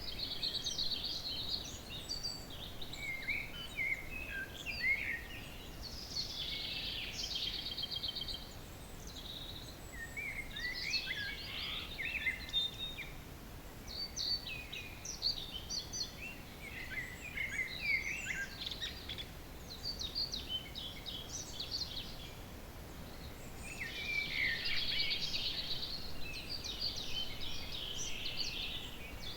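Early-morning chorus of several songbirds, with overlapping song phrases every few seconds, some ending in fast trills, over a faint steady background hiss.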